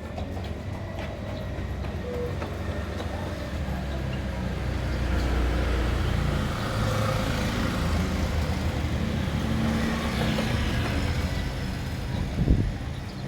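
A motor vehicle passing, a low rumble with a hiss that swells and then fades, and a single knock near the end.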